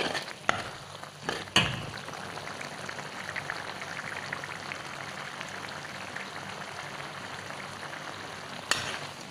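Chili sambal with jengkol bubbling and sizzling in a pan, a steady fine crackle. A metal spatula scrapes and knocks against the pan a few times in the first two seconds and once near the end.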